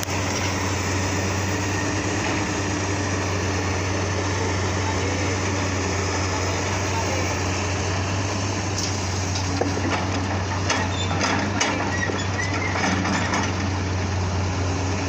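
Heavy diesel engine of the soil-loading machinery running steadily with a deep, even hum. A few faint knocks come about ten seconds in.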